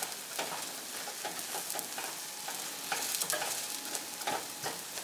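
Spanish omelette of potato and egg sizzling as it fries in olive oil, with light clicks and scrapes of a utensil against the pan.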